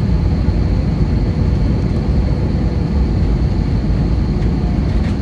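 Steady cabin noise of an Airbus A320, heard from inside the cabin: a low, even rumble of engines and airflow with a faint steady high whine over it.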